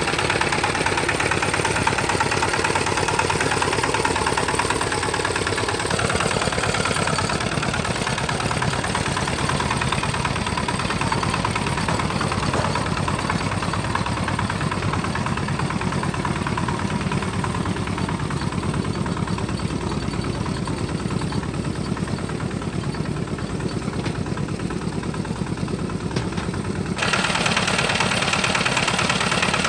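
Homemade tractor's engine running steadily with a fast, even chug. The sound grows duller through the middle and turns abruptly brighter and louder again near the end.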